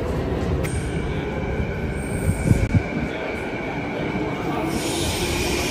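SkyTrain train approaching through the tunnel into an underground station, with a steady high-pitched whine and a rush of noise that swells near the end. A few low thumps come about two and a half seconds in.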